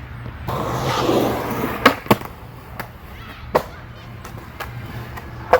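Skateboard wheels rolling on pavement for about a second, then sharp clacks of the board hitting the ground: two close together around two seconds in, another near the middle and one near the end, a failed first try at a manual.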